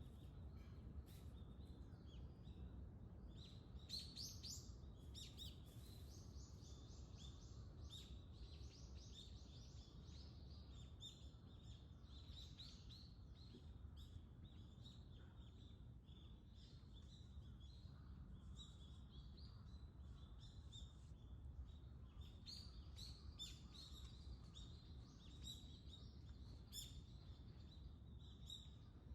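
Faint dawn chorus of small birds, many short high chirps and calls overlapping throughout, over a low steady rumble.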